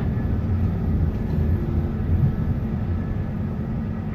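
Steady low rumble of a moving vehicle heard from inside its cabin, with a faint constant hum.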